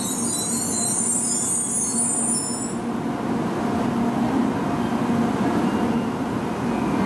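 N700 series Shinkansen train moving slowly, a steady running rumble with a low electric motor hum. A high-pitched squeal rides on top for the first few seconds and fades out.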